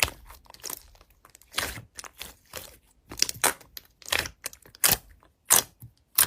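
Slime being squeezed and pressed by hand, giving irregular crunchy crackles and squishes.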